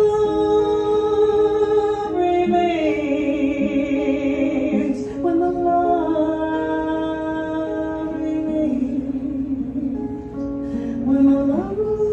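A woman singing long held, wavering notes without clear words, gliding from pitch to pitch in a drawn-out vocal run over a strummed acoustic guitar.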